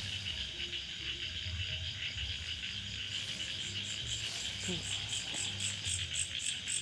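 Chorus of insects holding a steady high buzz, joined about halfway through by a faster, higher, evenly pulsing chirp of about five pulses a second, over a low rumble.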